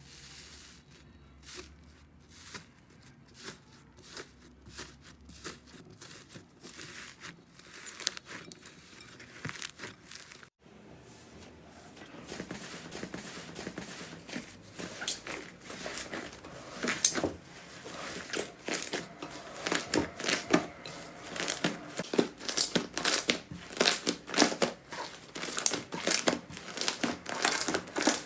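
Slime being squeezed, stretched and poked by hand, giving many small sticky clicks, crackles and pops. The clicks are sparse for the first ten seconds; after a brief break they come denser and louder.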